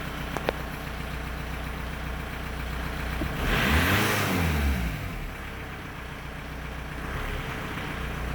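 2001 Volkswagen Beetle 1.9-litre four-cylinder turbodiesel idling, then revved once about three seconds in: the pitch climbs and falls back over about a second and a half before it settles to idle again. A short click sounds just after the start.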